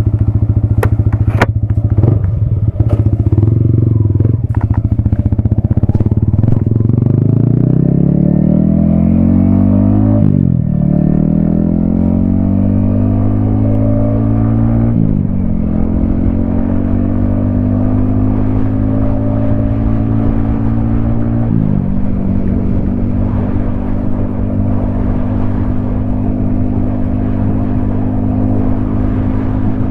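Yamaha XSR155's single-cylinder engine running low with a few sharp clicks at first, then accelerating through the gears. Its pitch climbs and dips briefly at each of three upshifts, then holds steady at cruising speed.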